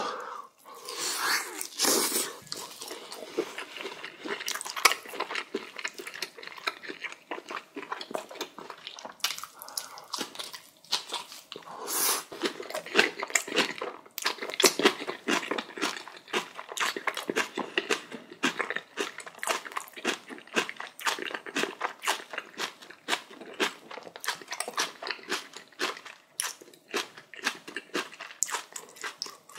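Close-miked eating: a person chewing and biting into spicy cabbage kimchi and boiled pork belly, with a rapid, irregular run of crunches and mouth clicks.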